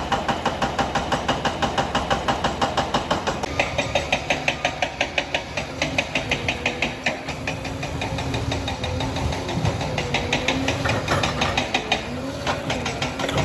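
Liebherr PR 746 crawler dozer running, with its steel tracks clanking in a steady rhythm of about four to five beats a second over the diesel engine's note. The engine note wavers up and down in pitch near the end.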